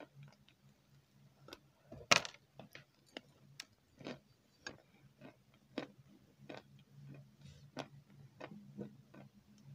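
Close-miked eating sounds: soft, irregular wet clicks and smacks from chewing a creamy dessert, about two a second, with one louder crackly sound about two seconds in. A low steady hum runs underneath.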